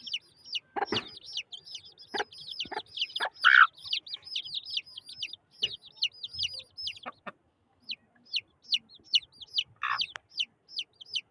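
Aseel chicks peeping: a rapid stream of short, high, falling peeps, several a second, with a few lower, louder calls mixed in, the loudest about three and a half seconds in. The peeping pauses briefly about two-thirds of the way through.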